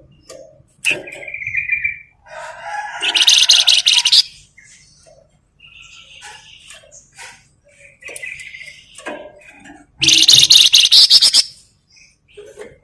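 Flamboyan songbird singing: short whistled notes broken by two loud bursts of fast, rattling trilled chatter (the 'ngebren' style), one about two and a half seconds in and one near the end.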